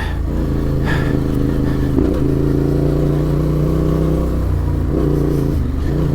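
Adventure motorcycle engine running steadily while riding a dirt track, its note dipping briefly about two seconds in and again near the end.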